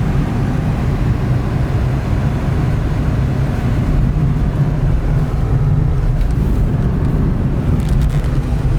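Penny Board's small plastic wheels rolling over pavement: a loud, steady low rumble, with wind buffeting the microphone.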